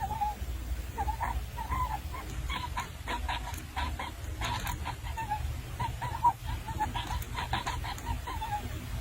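A bird calling in a quick run of short chirps, two or three a second, thicker in the middle, over a low steady rumble.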